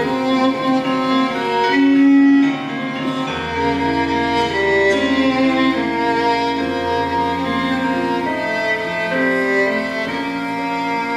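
Instrumental music: bowed strings, violin and cello, playing a melody of long held notes, with a low bass note coming in about three seconds in.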